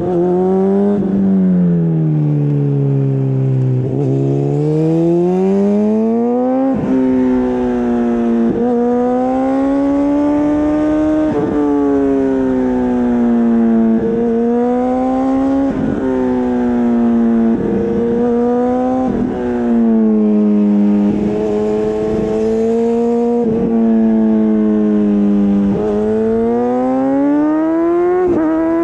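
Honda CBR600RR inline-four engine through an Akrapovič exhaust, under way on the road. Engine speed falls over the first few seconds, then rises and holds mid-range, dipping and picking up again every two to three seconds as the throttle is rolled off and on.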